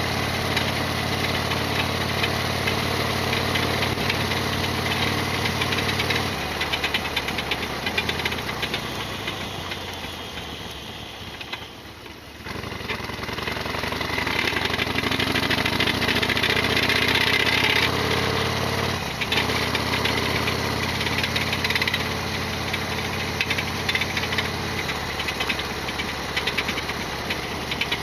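Harley-Davidson Sportster XL1200R's air-cooled V-twin running under way, with a loud clattering rattle over the engine note, which the owner calls a big abnormal noise. The engine note fades from about six seconds in to a low near twelve seconds, then climbs again as it picks up speed and holds steady.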